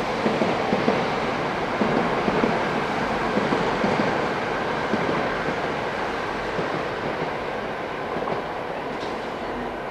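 Doctor Yellow, the Class 923 Shinkansen inspection train, running past on the rails: a steady rumble with faint wheel clicks, easing gradually as the rear of the train goes by.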